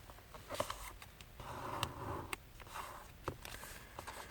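A sheet of thin paper being handled and folded by hand: faint rustles and small crisp ticks as it is creased.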